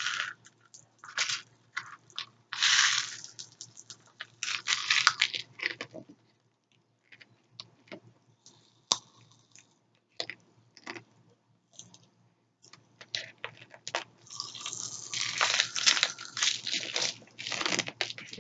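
Pop Rocks popping candy crackling in a mouth close to the microphone: many small irregular pops and crackles, thick in the first few seconds, thinning out in the middle and thick again near the end.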